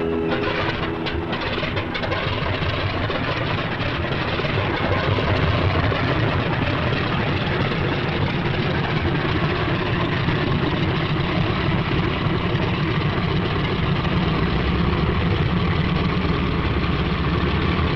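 P-47 Thunderbolt's Pratt & Whitney R-2800 radial engine starting with a few pops, then running steadily and growing louder about four seconds in.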